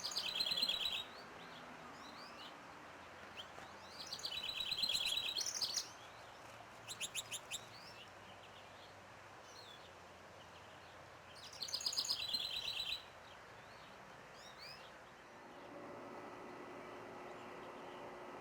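A songbird singing short trilled songs, three of them spaced several seconds apart, with a quick run of about five short chips between the second and third.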